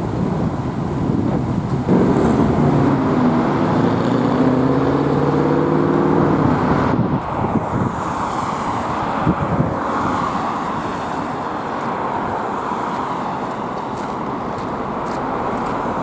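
Motor vehicle engine running as it passes along the road, over a steady wash of road and wind noise on the microphone.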